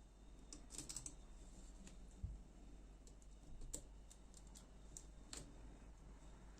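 Faint, irregular light clicks and taps of small knife parts and tools being handled while a folding knife is taken apart or put back together, a few clustered about a second in and then single ones every second or so.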